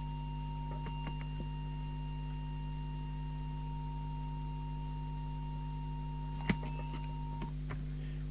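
A steady pure test tone from the bench radio test gear, held unbroken and then cutting off near the end, over a continuous low mains hum; a single click about six and a half seconds in.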